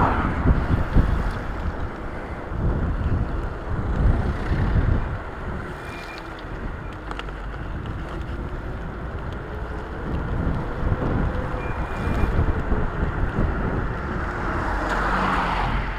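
Wind buffeting the action camera's microphone on a moving e-bike, over a steady low rumble of road and traffic noise. About halfway through, a faint motor tone slowly rises and then falls in pitch.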